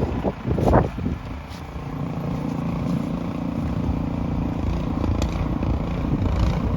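An engine running steadily, with a brief rising sound shortly before a second in.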